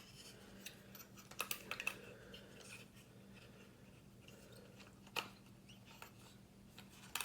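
Handling a small camera and its case: a quick cluster of sharp clicks a little over a second in, then single clicks about five seconds in and near the end.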